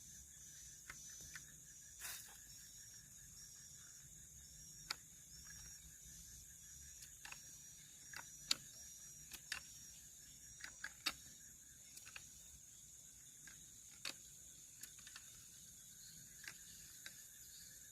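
Faint night insects: a steady high-pitched drone with a regular repeating chirp, and scattered sharp clicks.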